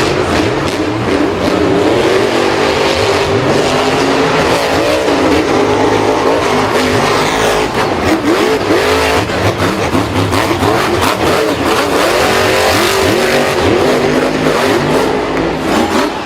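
Racing vehicle engines running loudly, their pitch rising and falling as they rev, with several engine tones overlapping.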